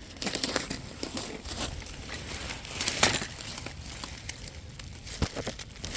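Crinkling and rustling with scattered light clicks and crunches, and a louder rustle about three seconds in.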